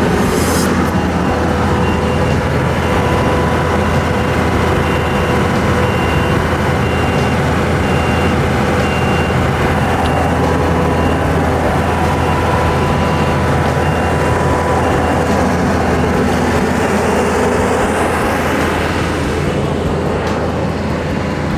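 An engine running steadily at constant speed, with an even low hum and a few steady higher tones.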